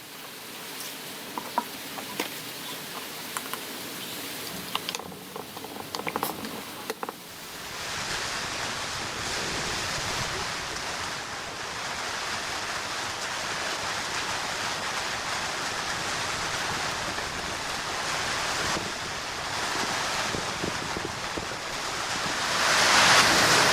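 Rain falling steadily, with scattered drips and taps in the first several seconds, then a louder, even hiss of rain from about a third of the way in that swells further near the end.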